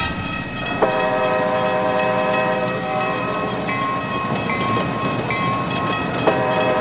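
Train sound effect: a train running steadily, with a horn sounding a held chord about a second in and again near the end.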